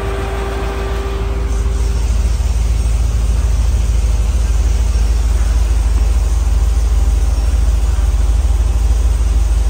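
LS3 6.2-litre V8, freshly swapped into the Range Rover, running with a steady low rumble that grows louder about a second and a half in.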